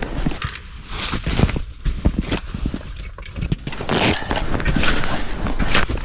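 Footsteps crunching through snow, an uneven run of short crunches.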